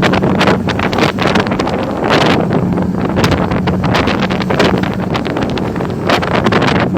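Strong wind buffeting the microphone in irregular gusts, over a steady low hum from a ship's engine.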